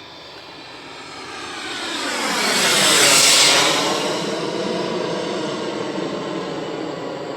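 Twin model jet turbines of a home-built radio-controlled Panavia Tornado whining in a pass overhead, growing louder to a peak about three seconds in, then drawing away.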